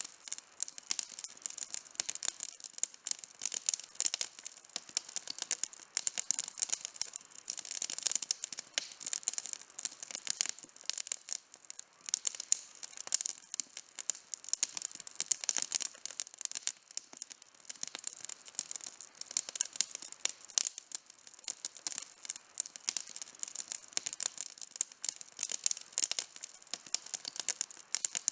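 Wood campfire burning, with dense, irregular crackling and popping throughout.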